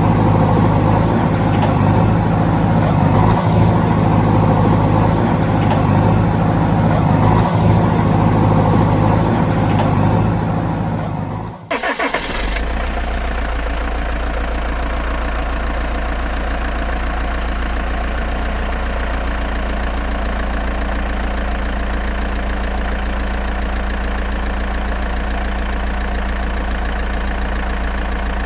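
A motor-vehicle engine running steadily. About twelve seconds in it drops away briefly, and a different, deeper engine sound takes over, idling evenly.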